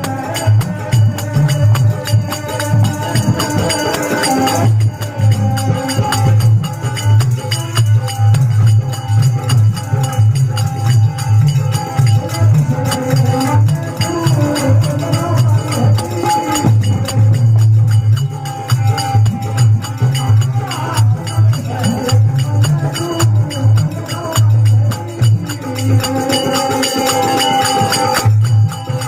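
Rajasthani folk devotional music: a dholak drum keeps a steady, driving beat under jingling hand percussion and a held melody line.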